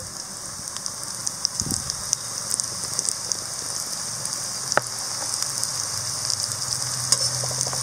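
Shallots and curry leaves frying in hot oil in a kadai over a low flame: a steady sizzle with scattered little crackles and pops.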